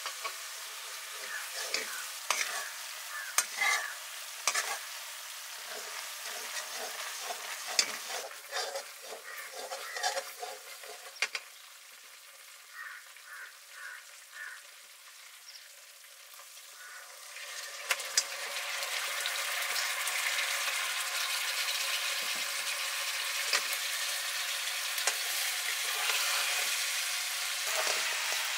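A utensil clinking and scraping in a cooking pan, then, from a little past halfway, a steady sizzle of food frying in hot oil.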